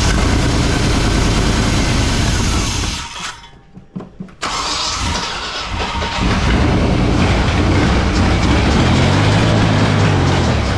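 Chevy 350 small-block V8 on its first test fire, running, dying away about three seconds in, then catching again about four seconds in and running on, with the revs rising near the end.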